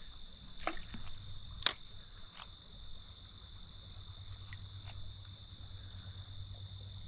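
Steady high-pitched insect chorus. A few sharp clicks come in the first couple of seconds, the loudest about a second and a half in.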